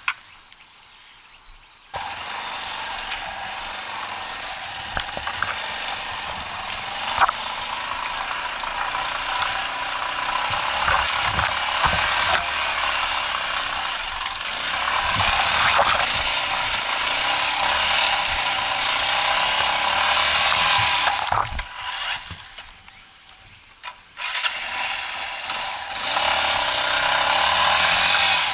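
Dirt bike's engine running under load, coming in abruptly about two seconds in, with a few low knocks. It drops off briefly near the end, then picks up again.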